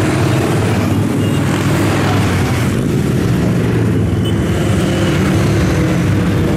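Steady, dense din of many motorcycle engines running as a stream of bikes rides by in traffic.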